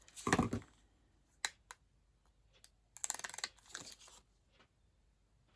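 Craft scissors snipping and card-making material rustling and crinkling in two short bouts, one right at the start and a longer one about three seconds in, with a single sharp tick between them.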